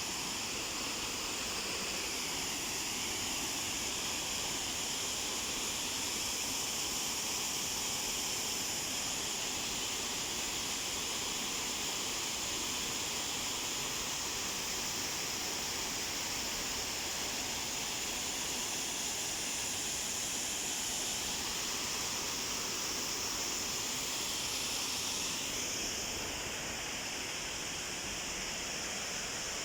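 Waterfall rushing: a steady hiss of falling water that drops slightly in level near the end.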